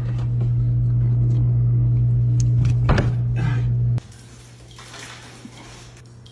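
A loud, steady low hum that cuts off abruptly about four seconds in, with a click shortly before it stops, followed by a fainter rustling hiss.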